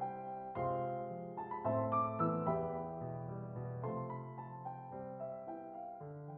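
Solo piano background music: slow, gentle chords played one after another.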